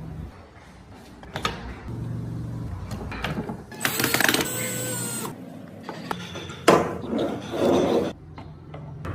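Workshop woodworking sounds: a few knocks and clicks, then about a second and a half of hissing power-tool noise with a faint whistle in it, a sharp knock near the end, and another short burst of rough noise.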